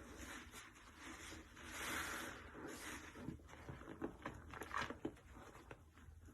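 Soapy sponge loaded with powdered cleanser and detergent being squeezed: a soft wet swell about two seconds in, then squelching with crackling, popping foam.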